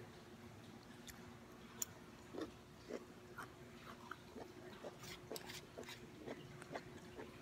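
Faint, close-up chewing and mouth sounds, with scattered small clicks and scrapes of a plastic fork on a paper plate. A faint steady hum runs underneath.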